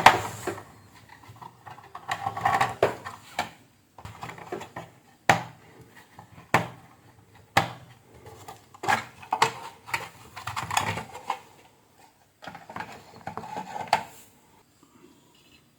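Intermittent metallic clinks and clatter with a few sharp clicks, from tools and small parts being handled on a workbench during circuit board repair.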